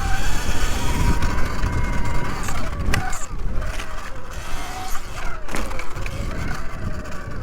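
Segway X160 electric dirt bike's motor whining, its pitch rising and falling with the throttle, over a steady low rumble of wind and the bike running over rough ground. A couple of sharp knocks come about three and five and a half seconds in.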